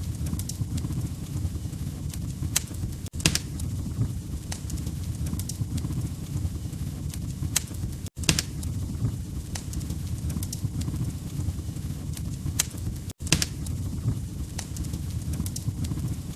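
Log fire crackling: scattered sharp pops and snaps over a steady low rumble. The sound cuts out for an instant three times, about every five seconds.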